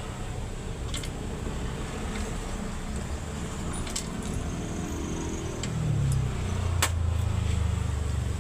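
Isuzu 10PC1 diesel engine running with a steady low rumble that grows louder about six seconds in, with a few sharp metallic clicks.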